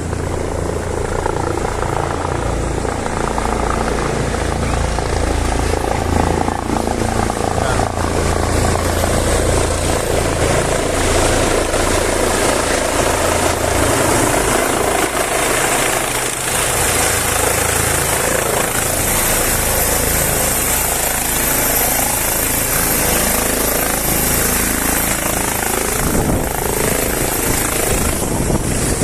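Medical trauma helicopter coming in to land close by: loud, steady rotor and turbine noise with a deep rumble that eases a little past the middle.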